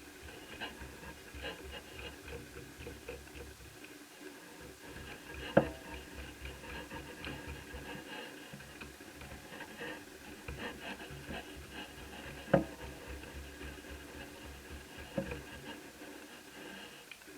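Small scraping and rubbing of a screwdriver and hands working screws out of an Asus F5R laptop's case, with three sharp clicks spaced several seconds apart.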